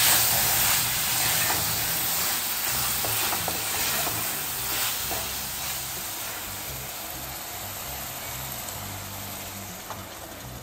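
Prawns and masala sizzling in hot oil in an aluminium pot, with a spatula stirring through them at first; the sizzle fades gradually.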